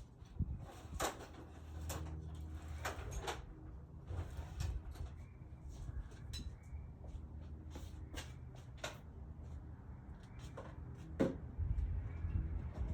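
Metal tools clinking and knocking in irregular sharp strikes, about a dozen of them, over a steady low hum.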